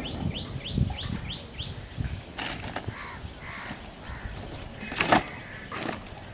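A bird calling in a fast run of short rising notes, three or four a second, for the first second and a half. Later come scattered rustling and crackling of a plastic bag being handled, loudest in a sharp crackle about five seconds in.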